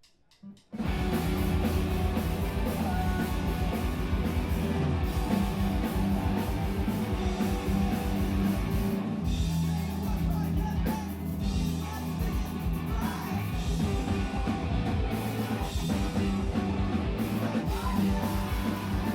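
Live screamo band kicking into a song: after a few quick clicks, drums, guitars and bass come in together all at once just under a second in and play on loudly.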